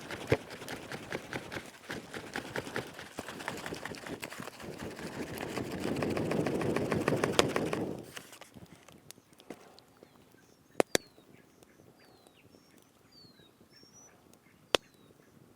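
Dense rustling and crackling that swells and then stops about eight seconds in. After that, short falling bird chirps and three sharp knocks over quiet forest background.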